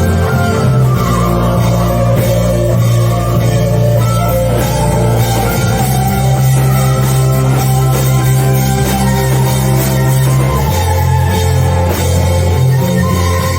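Worship band music with guitar and drums over held bass notes that change a few times.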